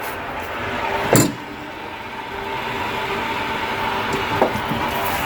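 Water rushing at full force into a tank water heater during a power flush, stirring up sediment to flush it out the drain. A steady hiss with a faint whistle, and one sharp knock about a second in.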